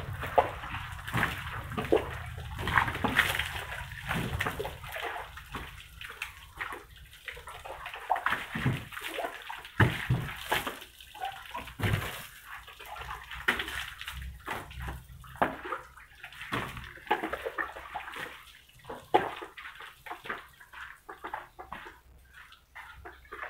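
Water splashing and sloshing in irregular bursts while a car is washed, busier in the first few seconds and thinning out towards the end.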